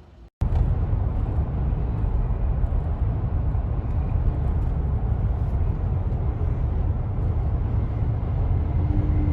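A vehicle running: a loud, steady low rumble that cuts in abruptly just after the start.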